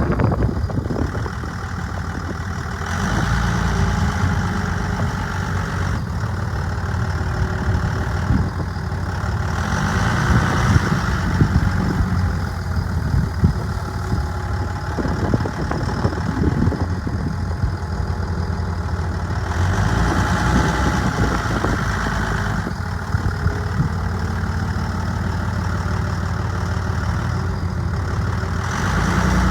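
Cummins 5.9-litre inline-six turbodiesel of a 2002 Dodge Ram dually idling steadily, its sound swelling and easing a few times.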